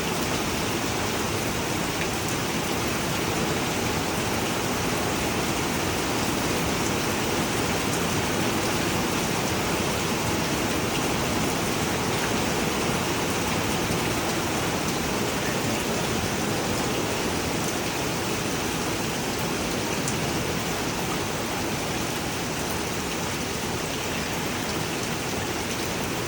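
Steady rain falling on a flat rooftop, an even hiss of drops.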